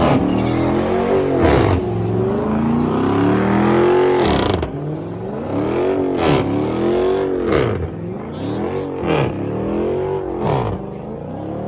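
Car engine revved hard over and over, its pitch climbing and dropping back about every second and a half, with sharp cracks from the exhaust as it falls off between several of the revs.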